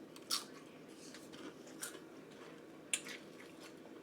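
Mouth eating sounds: chewing food with short wet lip-smack clicks, three of them, the loudest about three seconds in.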